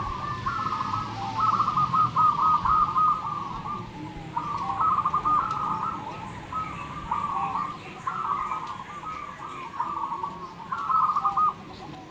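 Zebra doves (perkutut) cooing in turn, a string of rhythmic, bubbling coo phrases, each from half a second to about two seconds long, with short gaps between them.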